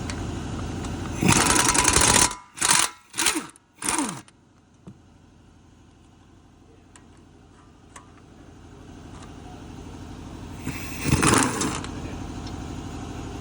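Impact gun hammering the front brake caliper bracket bolts loose: one long burst, three short bursts whose pitch falls away as the tool stops, then another burst about eleven seconds in.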